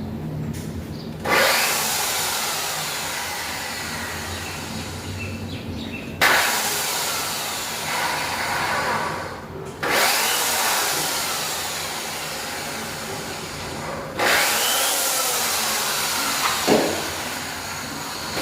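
A power tool run four times in stretches of several seconds, each starting suddenly at full level and slowly dying away.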